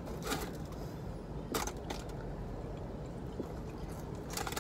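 Someone eating Jollibee fried chicken: a few short, crisp crunches of the breaded skin being bitten and chewed, over a steady low hum in the car cabin.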